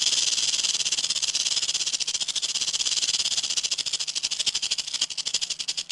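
Rattlesnake shaking its tail rattle: a fast, even buzzing rattle of rapid clicks that stops abruptly near the end.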